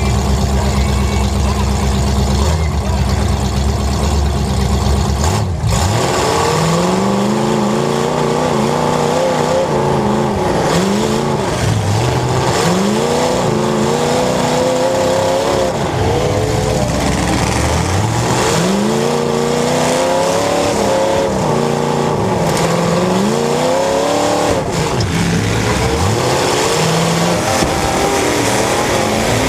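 Demolition derby car engines: a steady low engine drone for about the first five seconds, then engines revving up and down over and over.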